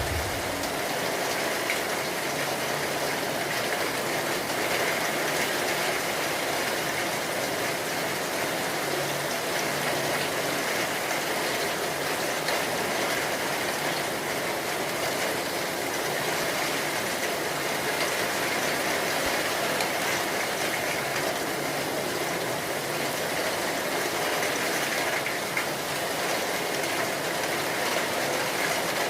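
Steady rain falling hard, an even unbroken hiss of drops on surfaces, with a brief low thump right at the start.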